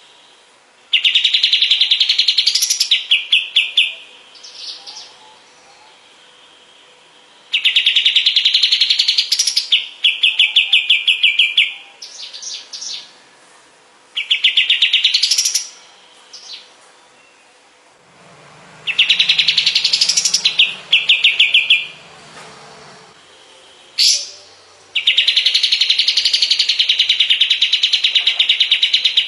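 Kapas tembak singing loud, repeated song bouts, each a rising run of notes ending in a rapid buzzing trill, five bouts with short pauses between them.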